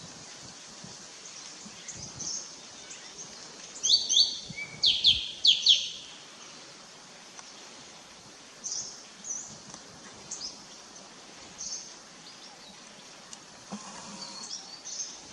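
Wild birds calling: a burst of loud, sharp, downward-sweeping chirps about four to six seconds in, with scattered fainter high chirps before and after, over steady background noise.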